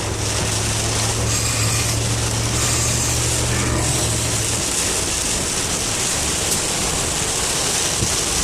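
Steady rush of heavy rain and road noise inside a moving car driving through a storm, with a low engine drone that drops away about halfway through.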